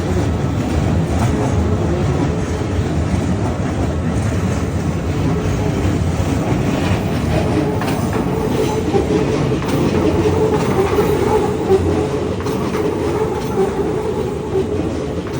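Keikyu electric train rolling slowly through a level crossing, a steady rumble of wheels on rail.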